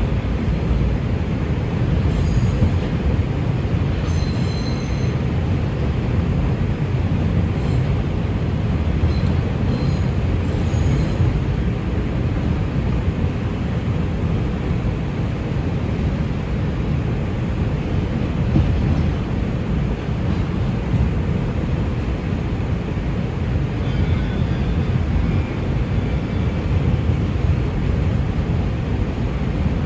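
NYC Subway R142 car running between stations, heard from inside the car: a steady, dense low rumble of wheels on the track. Faint high squeals come through a few times.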